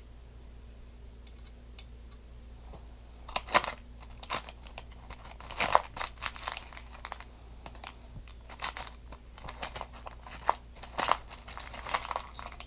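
Hands rummaging through small tools and parts: scattered clicks and rustles of plastic and metal, in short bunches with pauses between.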